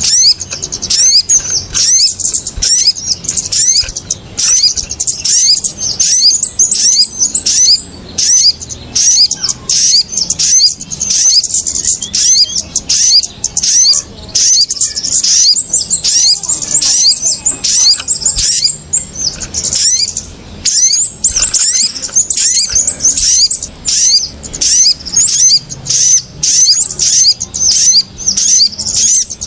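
Bird-lure recording of kemade and sogon calls: many small birds chirping rapidly and continuously at once, a loud, high, busy chatter meant to sound like a noisy flock and draw small birds down to the lure.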